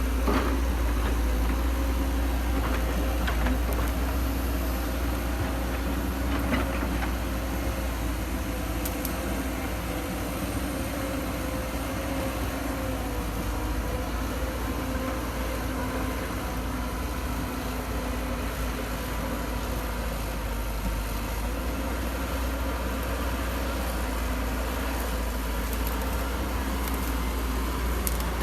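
Excavator's diesel engine running steadily, with a few short knocks in the first seven seconds.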